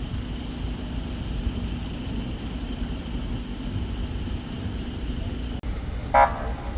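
Steady low engine rumble with a faint hum. A short, loud pitched sound comes just after six seconds.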